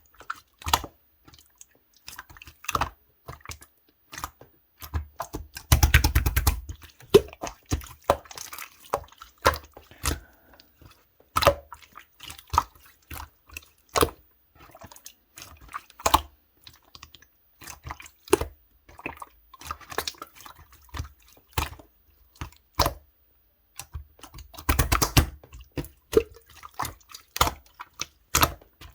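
Slime being squeezed, poked and stretched by hand: a run of sharp, wet clicks and pops, with two longer squelching stretches, about six seconds in and near the end.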